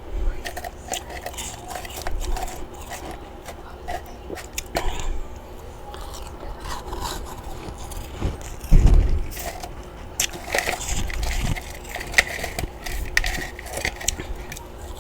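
Chunks of freezer frost being bitten and chewed: a run of irregular crunches and crackles, with one heavier low thump about nine seconds in.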